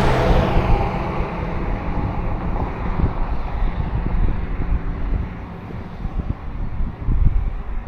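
A road vehicle passes close by. Its engine and tyre noise is loudest right at the start and fades away over the first couple of seconds. After that, gusty wind buffets the microphone with an uneven low rumble.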